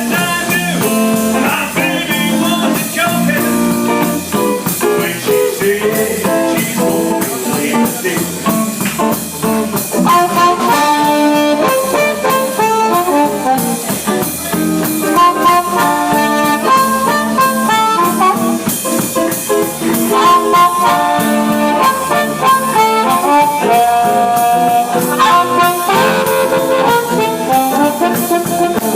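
Live band playing an instrumental passage of a blues/rock-and-roll number, with horns and electric guitar over a steady drum beat.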